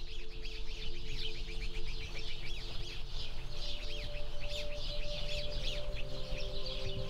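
A dense chorus of many small birds chirping rapidly and overlapping, over a soft bed of held musical notes, with a higher note joining about halfway through.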